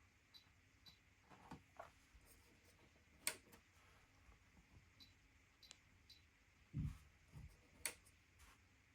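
Faint clicks and ticks from the washing machine's control panel being operated, with two sharper clicks a few seconds apart and a dull low thump in between.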